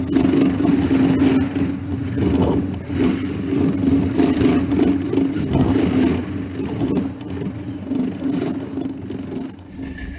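Freight train's boxcars and refrigerator cars rolling past at close range: a loud, steady rumble and clatter of steel wheels on the rails, with a thin high whine over it, easing slightly near the end.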